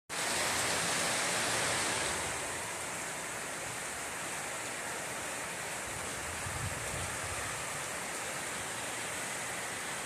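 Heavy rain pouring down steadily as a dense, even hiss. It is a little louder for the first two seconds, then settles.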